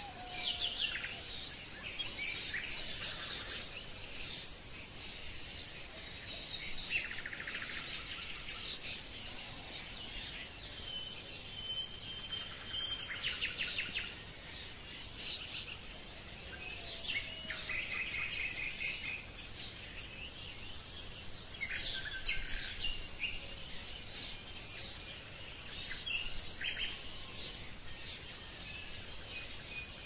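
Birds chirping and singing: many short calls and trills with a held whistled note about twelve seconds in, over a steady hiss.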